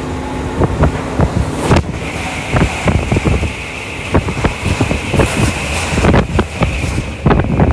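Commuter electric train running at speed, heard from inside the carriage: a steady rumble and high hiss with frequent sharp clicks and knocks from the wheels on the track. A short loud whoosh about two seconds in.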